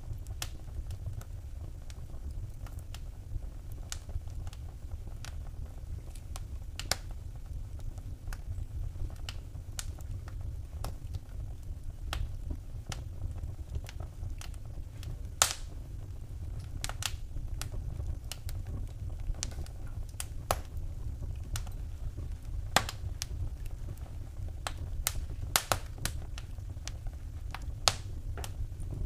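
Wood fire in a fireplace crackling: irregular sharp pops and snaps, a few louder ones about halfway through and near the end, over a steady low rumble.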